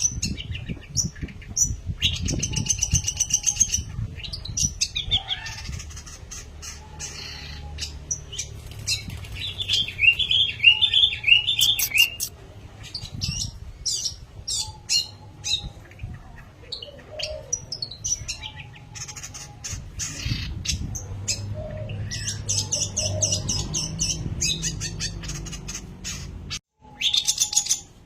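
Long-tailed shrike (pentet) singing vigorously: a busy run of varied sharp chirps and fast trilling phrases, with a low rumble underneath and a brief break near the end.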